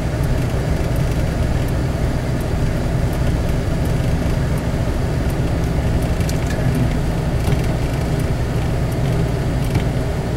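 Steady low rumble of a four-wheel-drive vehicle's engine and tyres heard inside the cabin while driving slowly on a snow-covered road, with a few faint ticks.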